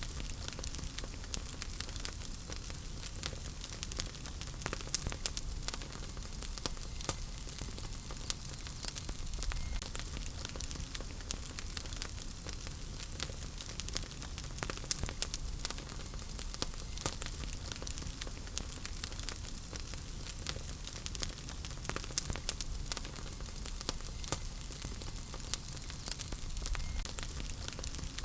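Wood fire burning in a fireplace: steady hiss and low rumble of the flames with frequent small, irregular crackles and pops from the burning logs.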